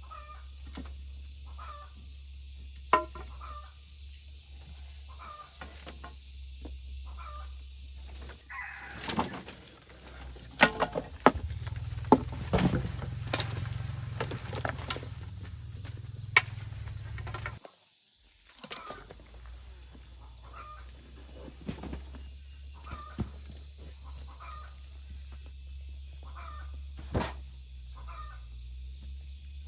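Outdoor rural ambience: a steady insect drone with short chirps about once a second, and scattered sharp knocks. Near the middle comes a spell of rapid clattering and knocking over a low hum, which stops abruptly.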